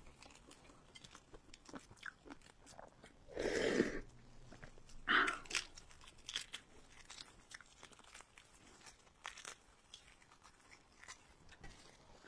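Close-miked crunching and chewing of food, with many small crisp crunches and two louder, longer sounds about three and a half and five seconds in.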